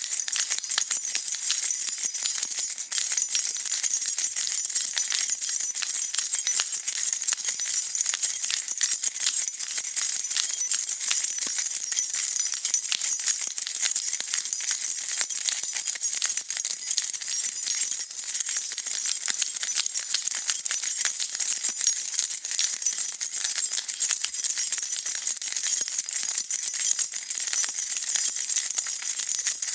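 A bunch of metal keys jingling and rattling without a break, a dense, steady stream of bright clinks.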